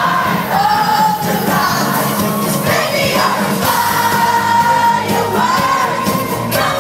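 Live pop concert: a band playing with a singer holding long sung notes, and crowd noise mixed in.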